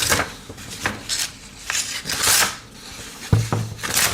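Paper rustling and tearing in several short scratchy strokes as a pocket-knife blade is pushed through it; the blade mostly tears rather than cuts, the sign of a dull edge.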